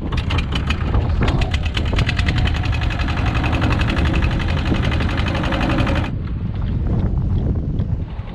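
Small fishing boat's engine running with a rapid, even knocking, over wind rumble on the microphone; the engine cuts off abruptly about six seconds in.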